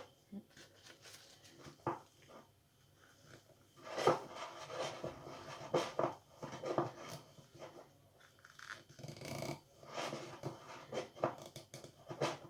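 Damp paper towel rubbing and wiping the inside of glass verrine cups, in irregular strokes, with a few light knocks of the glasses.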